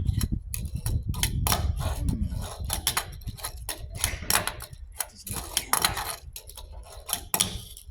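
Rapid, irregular clicks and clacks of a fingerboard (Tech Deck) being flicked and tapped on a hard surface, over a low rumble in the first half.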